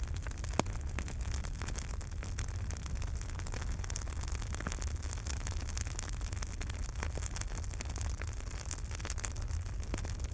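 Wood fire burning in a fireplace: a steady low rumble of flames with frequent small crackles and pops, one sharper pop about half a second in.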